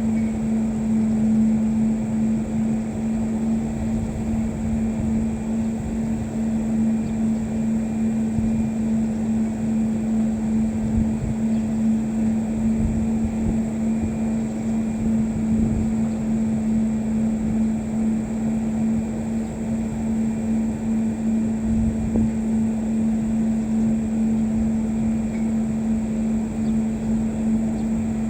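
A steady motor drone with a constant hum, and wind gusting on the microphone.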